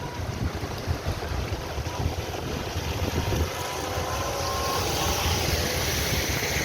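Vehicle engines running as traffic wades through floodwater, with water rushing and sloshing; a hiss of water grows louder from about halfway through.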